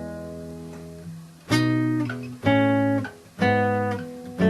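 Fingerpicked acoustic guitar in open D tuning: open strings ring and fade, then four plucked notes follow about a second apart, each left to ring, as in a two-finger bass scale rundown.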